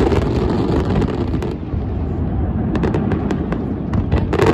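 Aerial fireworks display: shells bursting in a continuous low rumble of booms, with sharp crackles and pops that thin out briefly and come thick again about three seconds in.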